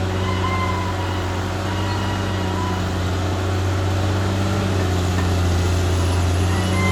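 Caterpillar D6R XL bulldozer's diesel engine running steadily, a little louder from about halfway through, with thin wavering high squeals over the low hum.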